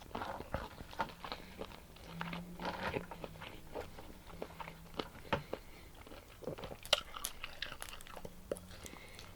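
Close-up eating sounds of a person chewing and biting into seafood boil: a run of irregular wet mouth clicks, smacks and small crunches.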